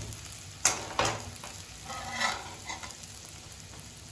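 Onion-tomato masala with chilli powder sizzling in a kadai, a steel ladle scraping and knocking against the pan: two sharp knocks about two-thirds of a second and a second in, then a softer scrape around two seconds. This is the chilli powder being fried until its raw smell is gone.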